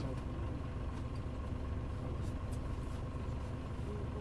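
Mitsubishi Fuso Aero Star bus (KL-MP35JM, Nishitetsu body) heard from inside the cabin: its engine and drivetrain run with a steady low drone, and a faint steady whine sits above it.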